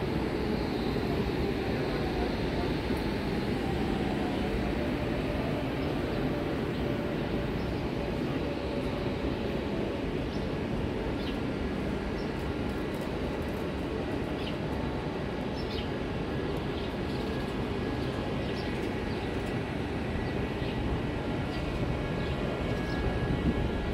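Double-deck electric regional passenger train rolling past alongside the platform: a steady rumble of wheels on rail. Faint short high squeaks come in from about halfway.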